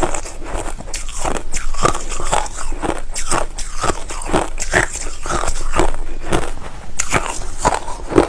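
Close-miked chewing of white crushed ice: a steady run of irregular crunches as the ice is bitten and ground between the teeth.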